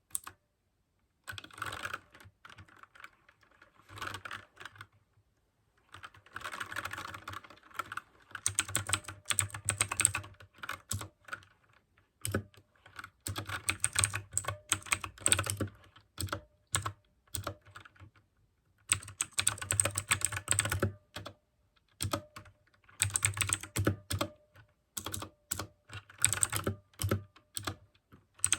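Mechanical keyboard with clicky blue switches being typed on fast, in bursts of rapid keystrokes separated by brief pauses.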